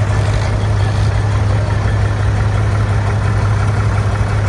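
Large diesel engine idling steadily and loudly, with an even low hum and no change in revs.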